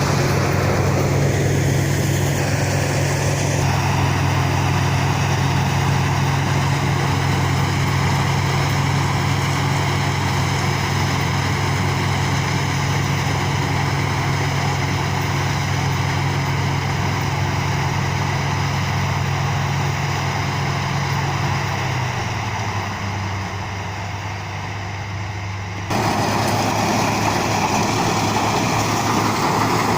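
Rice combine harvester engine running steadily with a constant hum. It gets a little quieter in the last third, then the sound changes abruptly near the end.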